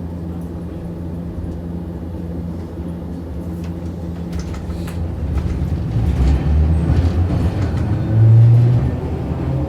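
Running sound inside Hiroshima Electric Railway 650-type streetcar No. 652: a steady low motor and gear hum with scattered clicks of the wheels on the rails. It grows louder through the second half, with a brief, louder low hum about eight seconds in.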